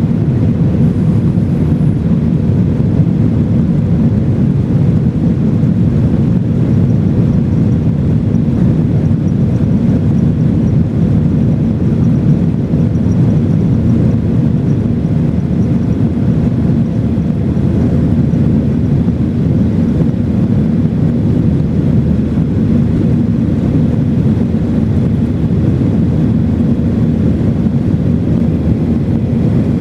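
Cabin noise of a Boeing 737-900ER climbing after takeoff: its CFM56-7B turbofan engines and the airflow make a loud, steady, low rumble.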